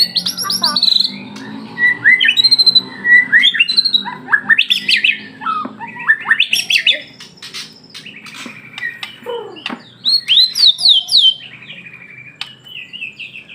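White-rumped shama (murai batu) in full song: a rapid, varied run of loud whistled notes, sharp chips and pitch glides, with a brief lull in the middle.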